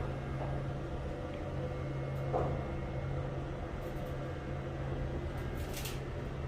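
Ambient sound of an underground railway station: a steady low hum over a background din, with a brief high hiss about six seconds in.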